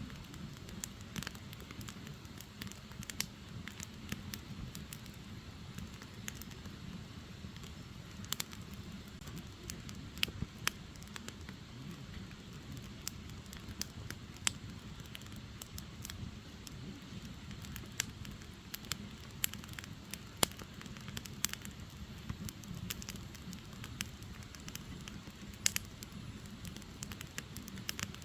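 Firewood burning, crackling with sharp pops at irregular intervals over a steady low rush of flame.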